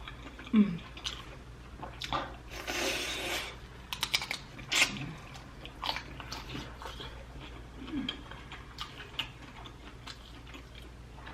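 Close-miked eating of sauced prawns: wet chewing, sucking and small clicks as the shells are peeled and the meat bitten, with a longer wet hiss about two to three seconds in.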